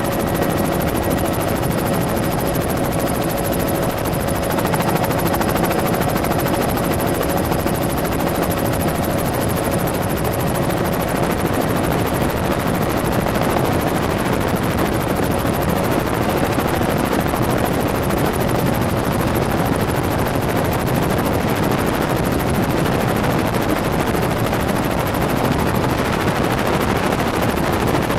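Helicopter in flight, a steady, loud wash of rotor and engine noise with a faint steady hum that fades out about ten seconds in.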